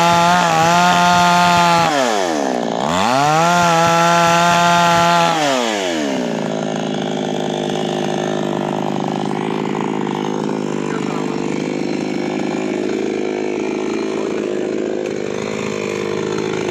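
Two-stroke chainsaw engine held at high revs, dropping away and revving back up about two to three seconds in. About six seconds in it falls off to a lower, steady running speed for the rest.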